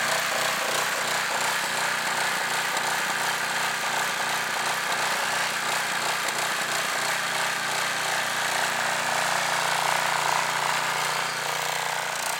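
Go-kart mower's small engine running steadily with a fast even chatter, just after a cold start in freezing weather with a carburetor that had been frozen. It grows a little quieter near the end.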